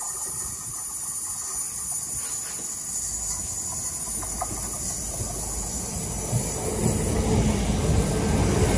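A train running, a steady rumble and hiss with faint clicks, growing louder over the last few seconds.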